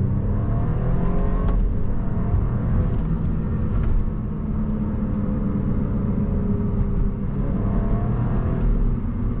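BMW Z4 sDrive28i's turbocharged four-cylinder engine pulling under acceleration. Its pitch climbs and then drops at a gear change, once about a second in and again near the end.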